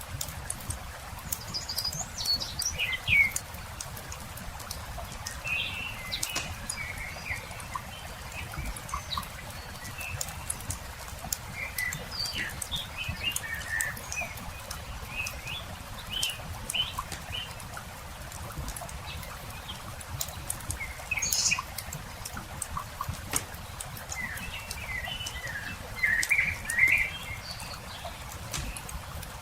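Wood campfire crackling with scattered small pops, under songbirds chirping and twittering throughout, the birds busiest near the end.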